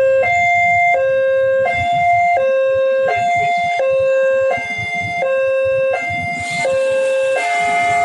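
Electronic two-tone warning alarm of a railway level crossing, alternating steadily between a lower and a higher tone about every 0.7 seconds, over the low rumble of road traffic.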